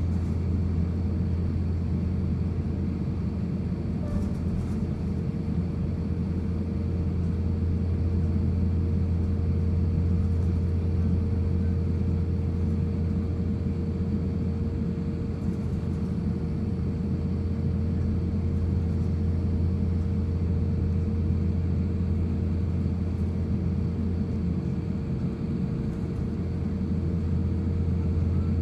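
Steady low rumble inside the cabin of an Airbus A350-1000, with its Rolls-Royce Trent XWB engines running at low taxi power and a steady hum over it.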